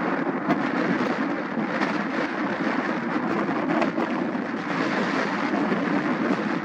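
Airbus A320neo's Pratt & Whitney PW1100G geared turbofans at takeoff thrust on departure: a steady jet rumble with a fine crackle.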